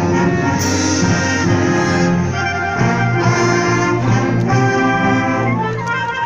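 Symphonic wind band playing, with brass (trumpets and trombones) carrying sustained chords and a moving melody.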